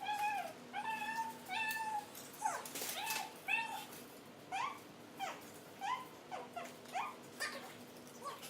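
A cat meowing over and over in short high mews, about two a second. The first few calls are held level, and the later ones are quick rising-and-falling chirps.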